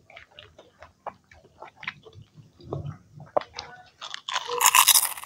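Close-up chewing and biting of fried samosas, with small mouth clicks and crunches of the pastry, then a louder burst of noise about four seconds in that lasts about a second.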